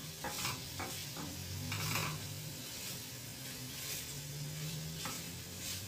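Chicken pieces sizzling in a frying pan as a wooden spoon stirs them, the spoon scraping against the pan several times in the first two seconds and twice more near the end.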